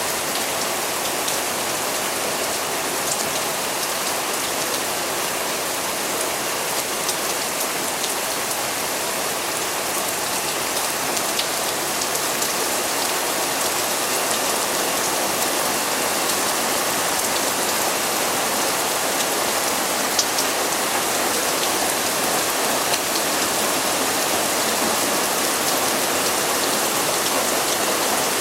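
Steady rain of a thunderstorm downpour, falling evenly, with the ticks of single drops striking close by.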